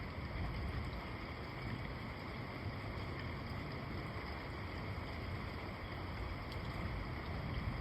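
Steady rain with a low, continuous rumble underneath, part of a thunderstorm.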